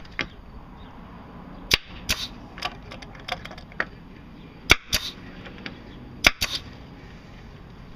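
A staple gun snapping about nine times at an irregular pace, some shots in quick pairs, the loudest about halfway through and again about two thirds in.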